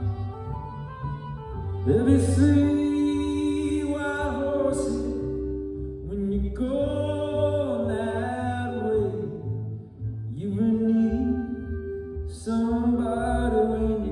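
Live orchestral pop music: the orchestra holds steady bass and chords under a lead vocal melody sung in long phrases, one starting about every four seconds.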